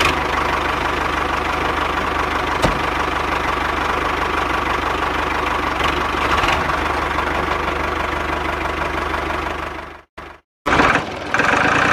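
A small motor in a DIY miniature machine running steadily with a fast mechanical rattle. It cuts out suddenly about ten seconds in, and a different, higher-pitched machine sound follows.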